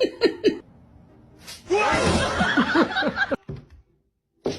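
Laughter in quick 'ha-ha' bursts: a short run that ends about half a second in, then a louder, longer fit from about two to three seconds in. A brief sharp sound follows near the end.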